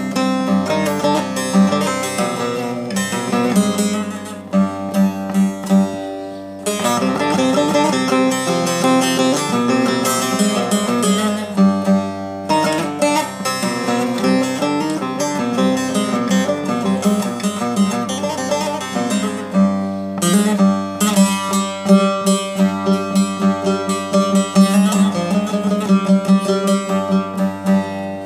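Bağlama (Turkish long-necked lute) played solo in a free improvisation: quick plucked runs over a repeated low note, with short breaks about 6.5 and 12 seconds in and fast repeated notes toward the end.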